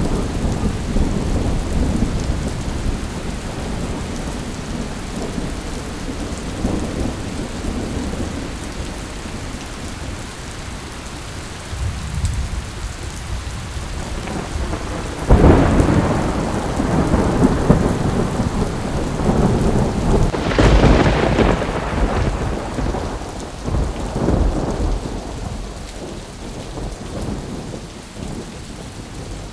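Thunderstorm with steady rain and rolling thunder: low rumbling through the first half, then two loud thunderclaps, one about halfway through and another a few seconds later, each breaking suddenly and rumbling away.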